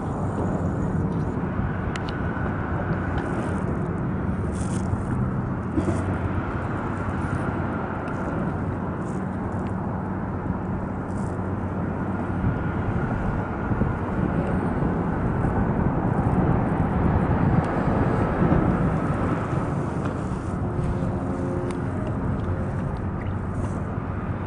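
Steady low rumble of outdoor background noise on open water, with a few faint clicks.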